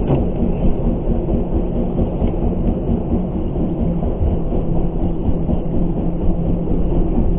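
Boat engine running steadily, a constant low drone with a hum in it.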